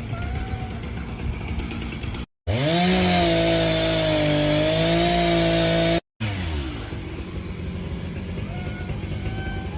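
A motor spins up quickly and runs at a steady pitch for about three and a half seconds, starting and stopping abruptly, between stretches of rasping noise.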